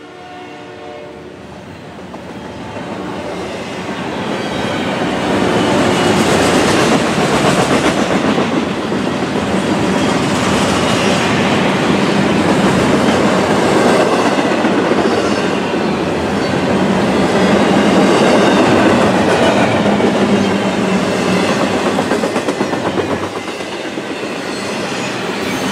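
Double-stack intermodal well cars rolling past close by, steel wheels rumbling and clattering on the rails. It grows louder over the first several seconds, then stays loud and steady, easing a little near the end.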